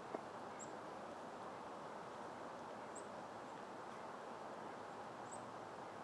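Steady faint outdoor background noise, with three short, very high bird call notes spaced a couple of seconds apart and a single soft tap right at the start.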